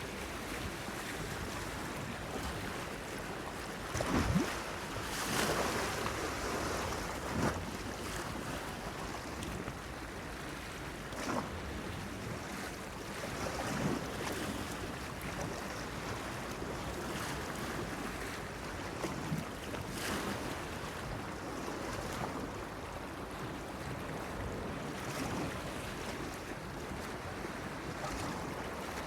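Small sea waves washing and splashing against a breakwater, with irregular louder splashes every few seconds; the strongest comes about four seconds in. Light wind blows in the background.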